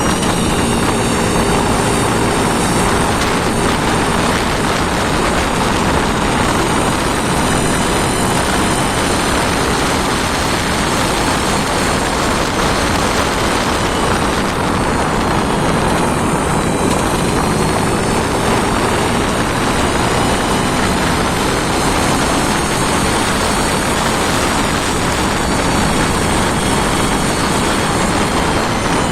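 An engine running steadily under test, loud and even throughout.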